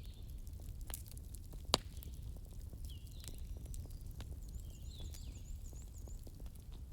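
Burning wood logs crackling over a low steady rumble of flames, with scattered small pops and one sharp, loud pop just under two seconds in. Birds chirp in the background, with a quick run of high repeated notes in the middle.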